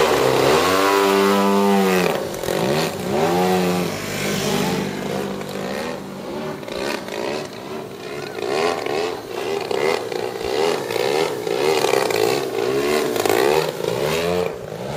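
120cc gasoline engine of a giant-scale RC Edge 540 aerobatic plane in flight, its pitch rising and falling repeatedly as it passes and changes throttle. Loudest in the first two seconds, then quieter and farther off.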